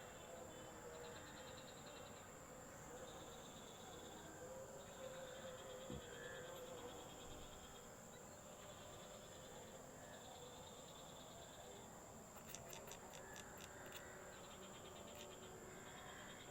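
Faint crickets chirping in pulsed trains over a steady high-pitched insect whine, with a quick run of sharp high ticks about twelve to fourteen seconds in.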